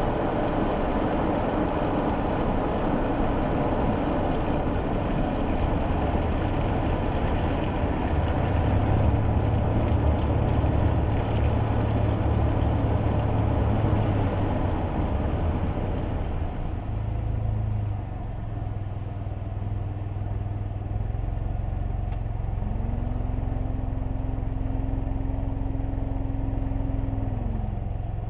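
Inside a kei car's cabin on a wet road: steady tyre and road noise over a low engine hum. After about sixteen seconds the noise eases as the car slows. Near the end a single hum rises, holds for a few seconds and falls away.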